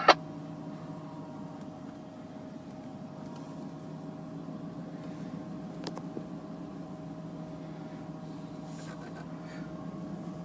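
Truck engine running at a steady low hum, with a single faint click about six seconds in.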